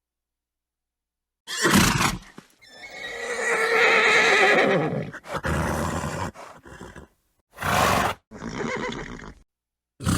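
Horse neighing: a long whinny with a wavering pitch a couple of seconds in, set among several shorter horse calls and bursts, with dead silence between some of them.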